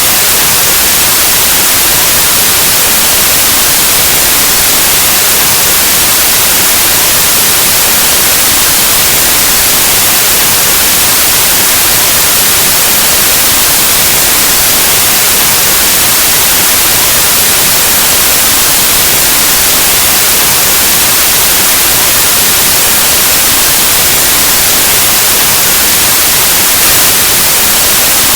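Steady, loud white noise: a continuous static hiss spread evenly across the whole range, with no change.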